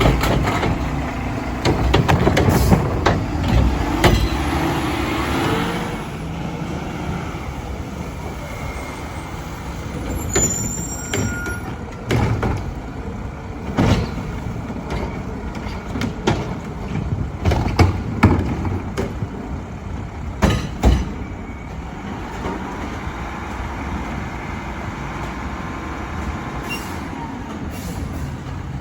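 Mack LR garbage truck with Heil Odyssey body and Curotto Can at work: diesel engine and hydraulics running hard for the first few seconds, then a string of sharp bangs and clanks, with a brief high squeal about ten seconds in, before it settles to a steadier run.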